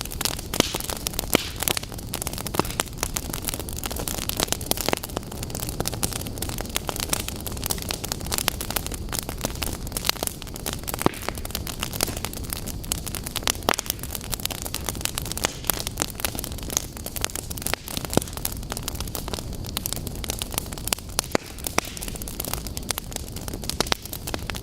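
Wood fire burning in a fireplace: steady hiss of the flames with frequent irregular crackles and pops.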